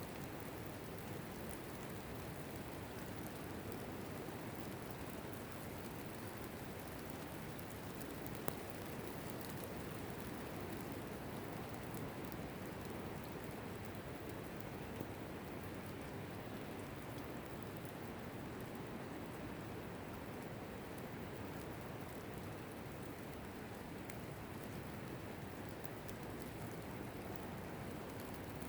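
Steady rainfall, drops pattering on surfaces, with an occasional single louder drop or tick.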